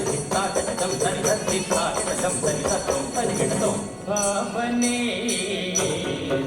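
Indian dance music with jingling bells struck in a quick, steady rhythm. About four seconds in the jingling pauses and a wavering melody line comes in.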